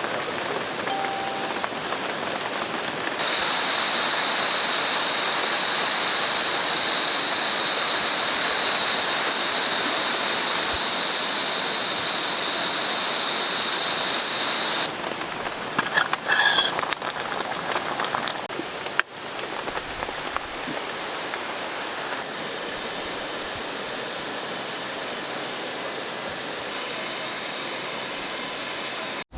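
Steady rain falling, a dense hiss of water. From about three seconds in, a steady high-pitched drone lies over it for roughly twelve seconds and then stops suddenly.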